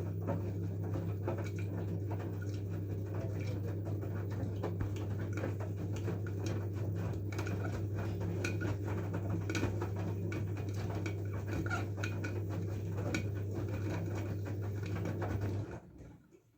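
LG F12A8ND washing machine's direct-drive motor humming as the drum tumbles wet laundry, with a continuous patter of small clicks and splashes. The drum stops near the end, and the sound falls away to near silence.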